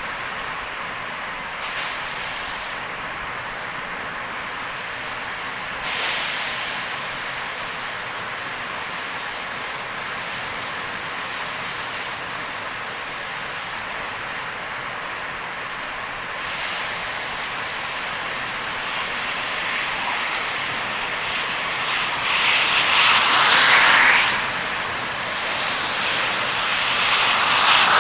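Steady hiss of heavy rain and tyres on a wet expressway as a car drives through a downpour. The noise swells briefly once early on, then louder twice toward the end.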